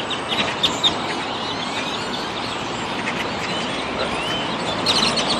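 A large flock of birds calling all at once, many overlapping chirps and short rising whistles, over steady traffic noise.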